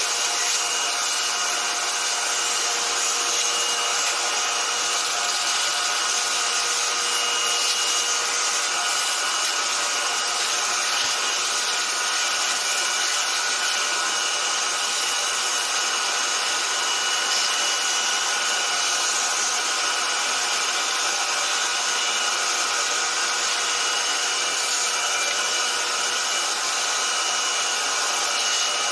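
Lexmark X364dn laser printer running with a steady grinding, rubbing noise that has a few faint steady tones in it. The uploader traced this noise to the duplex assembly; replacing the fuser and the main drive assembly did not cure it.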